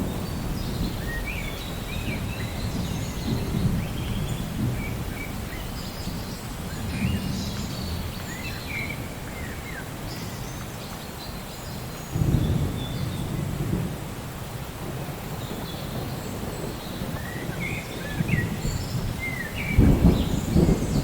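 Steady rain with rolling thunder: a low rumble swells suddenly about twelve seconds in and again near the end. Birds chirp over the rain in short bursts of calls.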